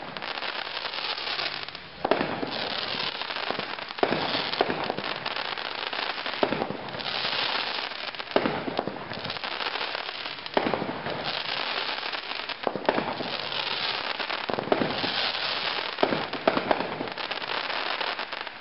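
200-gram consumer fireworks cake, Instant Replay, firing its 12 shots. Each shot is a sharp bang about every two seconds, followed by a hissing spray as the shell breaks.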